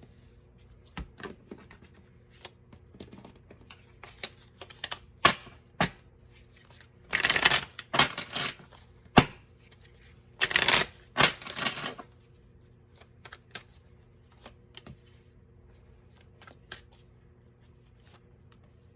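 Tarot cards being shuffled by hand: scattered light card taps and slides, with two louder stretches of shuffling about seven and ten and a half seconds in.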